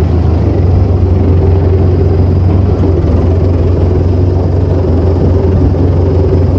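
Vehicle engine running steadily while driving, a loud, even low drone.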